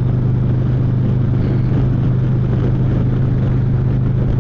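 The Milwaukee-Eight 107 V-twin of a 2017 Harley-Davidson Street Glide Special running at a steady speed on the road: a constant low engine drone under a steady rush of wind and road noise.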